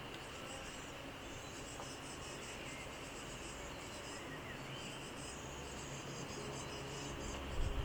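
Field insects stridulating in the grass: a high, buzzy chirring in repeated phrases of a second or two over a steady background hiss, with a single low thump near the end.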